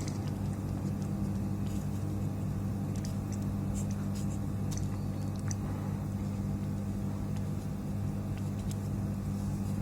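A steady low hum from a small machine or electrical device, with a few faint light clicks scattered through it.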